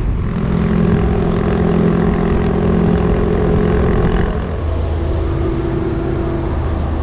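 Motorcycle engine running at road speed with road and wind noise. About four and a half seconds in, the engine note drops to a lower pitch and gets slightly quieter.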